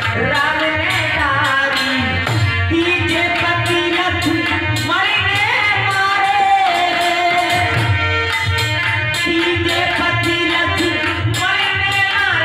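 Indian folk bhajan music: tabla-type hand drums keeping a steady beat with a jingling rattle, under a melody that slides up and down in pitch.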